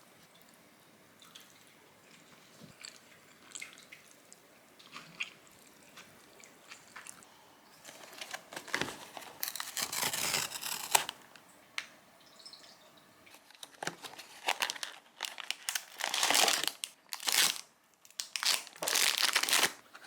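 Kitchen handling noises: faint clicks and taps, then from about eight seconds in several loud bursts of crinkling and rustling, like wrapping material being handled.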